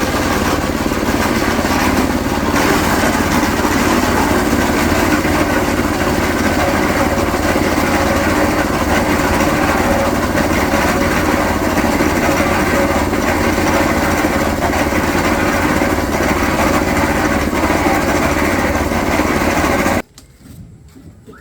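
A small engine runs steadily and loudly, then cuts off abruptly about a second before the end.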